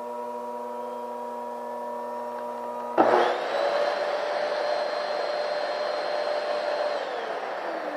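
Mitsubishi Electric vacuum cleaner motor starting abruptly about three seconds in, whining up to speed and running with a steady rush of air, then winding down near the end. It is switched on by itself by radio interference from an amateur radio transmitter. Before it starts there is a steady hum of several tones.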